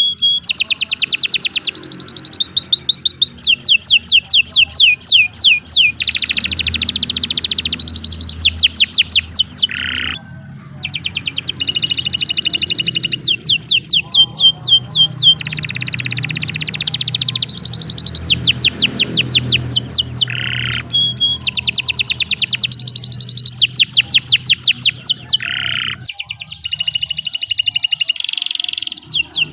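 Domestic canary singing a long, unbroken song of rapid repeated trills, switching from one trill to another every second or two, with brief pauses about ten seconds in and near the end.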